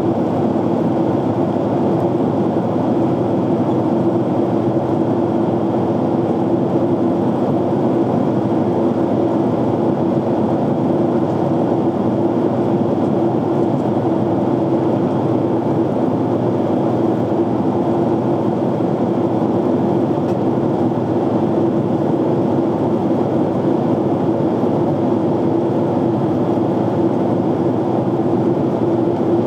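Jet airliner cabin noise in flight: a steady rush of engine and airflow noise with a constant low hum running through it.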